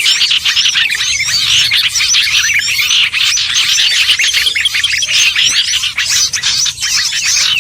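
A dense chorus of many small songbirds chirping and chattering at once, a busy mix of short overlapping calls and whistles with no pause, played as a lure recording to call in small birds.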